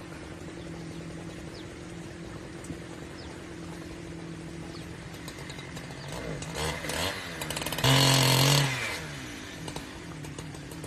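Chainsaw idling with a steady low hum, revving up about six seconds in, running at full throttle for under a second near eight seconds in, then dropping back to idle.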